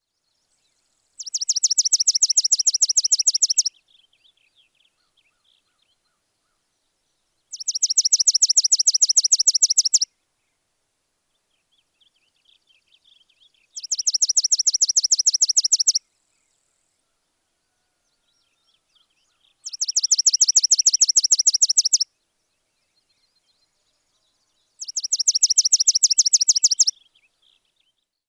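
A bird singing a fast, high-pitched trill of rapid, evenly spaced notes, repeated five times with pauses of a few seconds between, and faint twittering in the gaps.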